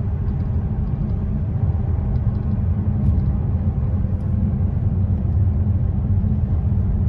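Steady low rumble inside the cabin of a Bentley Continental Supersports cruising at highway speed on light throttle: its twin-turbo W12 engine and road noise, with no rise or fall in pitch.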